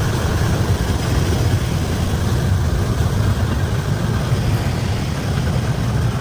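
Tractor engine running steadily with a low rumble, no change in pitch.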